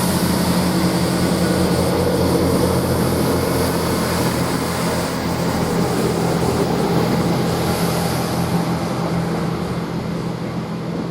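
East Midlands Railway Class 158 diesel multiple unit running at the platform, its underfloor diesel engines giving a steady low drone under a wide hiss, easing off slightly near the end.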